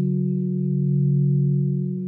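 Quartz crystal singing bowls ringing together, several steady overlapping tones held on, with a slow wavering beat in the lowest one.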